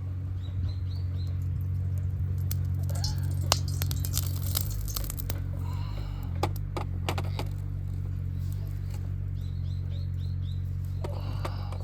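Small birds chirping in short runs of quick high notes, over a steady low hum. A cluster of sharp crackles and clicks comes in the middle.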